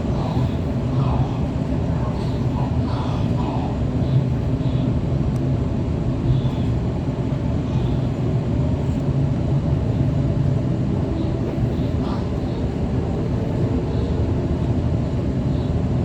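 Steady low vehicle rumble, with faint voices in the background.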